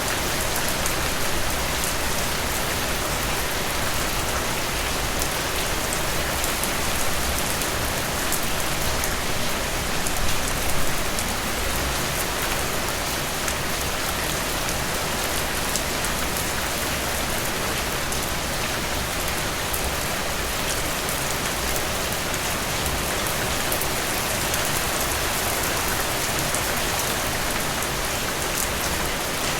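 Heavy rain falling steadily, a dense even hiss with many individual drops ticking on hard surfaces. A few slightly louder gusts come about ten seconds in.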